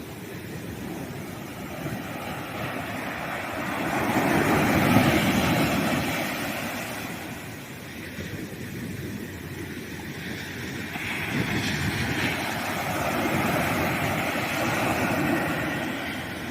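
Sea waves breaking on a sandy beach: surf swells up to a peak about five seconds in and falls away, then a second, longer wash of surf builds from about eleven seconds in and fades near the end.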